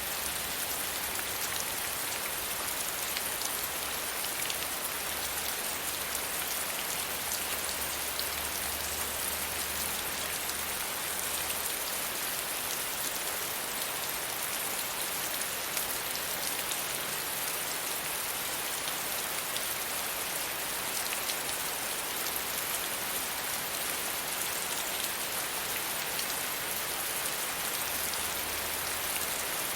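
Steady gentle rain falling on a surface, an even hiss with the patter of individual drops.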